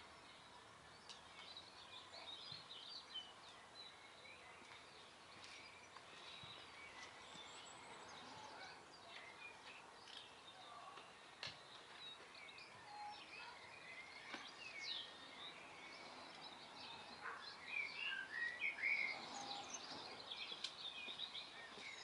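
Faint chirping and twittering of small garden birds, scattered through, growing busier and louder a little before the end, with a few soft clicks.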